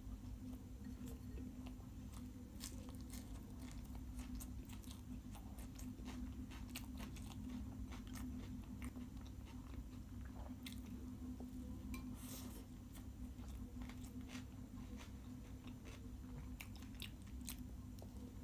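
Close-miked mouth sounds of a person eating by hand: chewing and biting, a scatter of small wet clicks and smacks, over a steady low hum.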